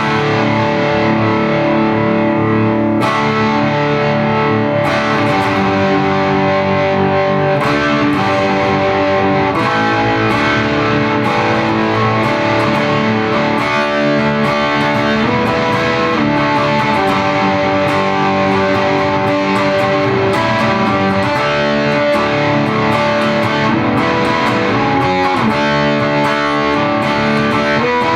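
Lavish PTR electric guitar with Seymour Duncan humbuckers, played through distortion: a continuous overdriven line of held, sustaining notes and chords, demonstrating its distorted tone.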